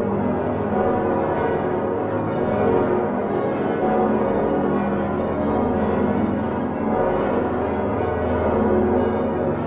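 The full peal of the Utrecht Dom tower's swinging bells, six cast by Geert van Wou in 1505 (the largest the 8,226 kg Salvator) with the others added in 1982, hung on straight headstocks with flying clappers. Strikes overlap continuously into a dense, steady wash of many bell tones.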